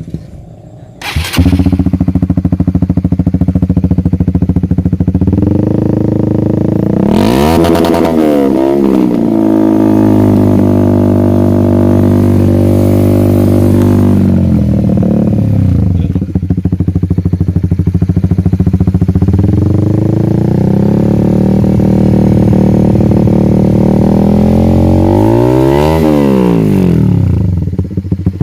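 Honda CBR150R single-cylinder engine breathing through an aftermarket Akrapovic exhaust: it starts up about a second in and idles, with one throttle blip about eight seconds in and another near the end, the pitch rising and falling back each time.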